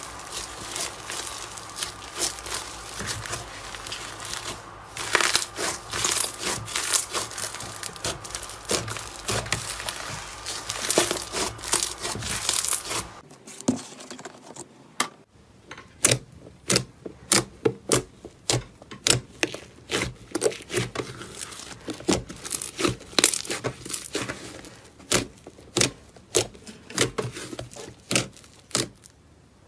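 Crunchy material being squeezed and crushed by hand, giving dense crackling and crinkling. About 13 seconds in, it changes to a quieter clip of separate crisp crunches, several a second.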